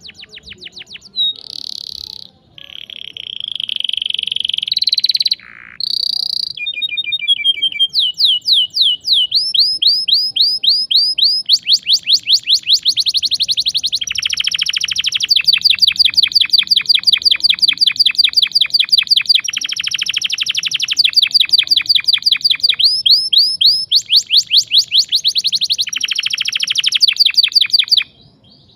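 Domestic canary singing a sharp, rolling song: a few held whistles and buzzy notes at first, then long rapid trills of quickly repeated notes that run on until the song stops abruptly near the end.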